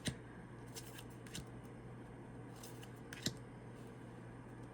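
Tarot cards being handled: a few faint, light clicks and taps as cards are moved and laid down, the loudest a little past three seconds in.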